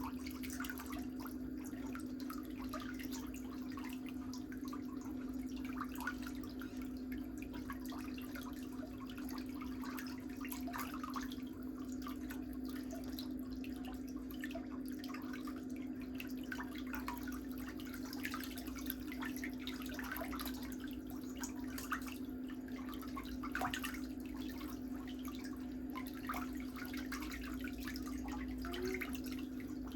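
A small electric motor hums steadily at one pitch, with scattered small clicks and scrapes over it.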